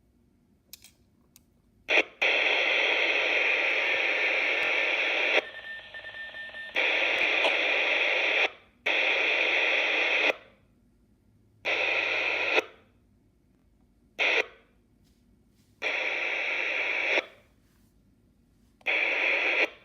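Motorola GP340 handheld two-way radio's speaker hissing with static in about seven separate bursts, each switching on abruptly with a click and cutting off after a short tail, some under a second and the longest about three seconds. The static comes on when the radio's antenna is touched.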